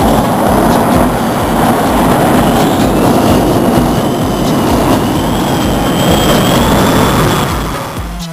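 A pulling tractor's engine running hard under load, a loud, dense roar that eases near the end. A dance-music beat, about two kicks a second, runs underneath.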